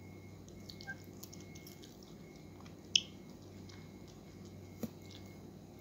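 Faint, wet chewing of soft ripe mango flesh over a steady low hum, with two sharp clicks about three and five seconds in.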